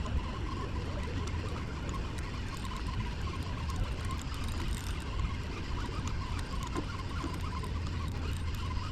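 Steady wind rumble on the microphone with trickling, splashing water.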